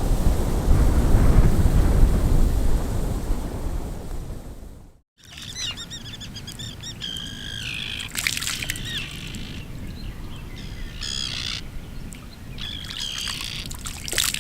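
Strong wind buffeting the microphone with a loud rumble; it cuts off about five seconds in. Then songbirds chirp and trill over quieter background noise.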